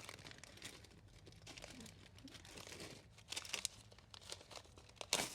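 Plastic crinkling with scattered small clicks as a pack of craft beads is handled, busiest a little past halfway and again near the end.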